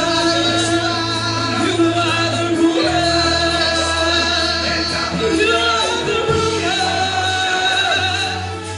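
Live worship music with singing: held low notes under a wavering, drawn-out vocal line.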